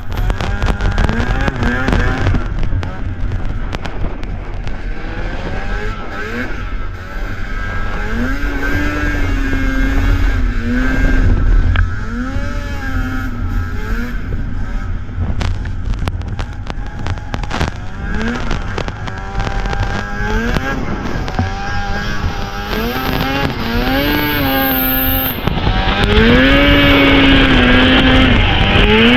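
Vintage two-stroke snowmobile engine revving up and down again and again as the sled rides, then held at higher revs near the end.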